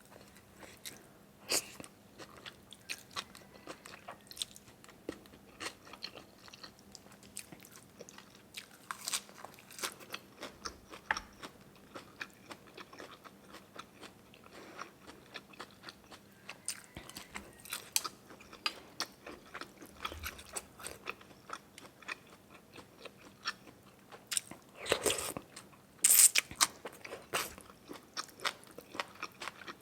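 A person chewing and crunching food close to the microphone, with many small mouth clicks throughout. There are a couple of louder bursts near the end.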